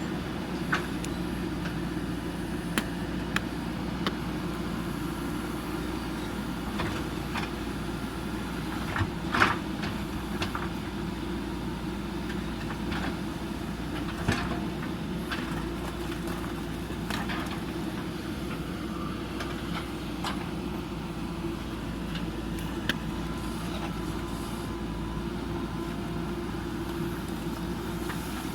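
JCB 3DX backhoe loader's diesel engine running steadily, with scattered sharp knocks and clanks from the work, the loudest about nine seconds in.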